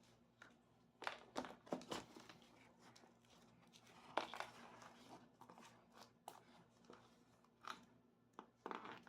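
Gift-box packaging being handled: short bursts of crinkling and rustling, a cluster about a second in, another around four seconds, and more near the end.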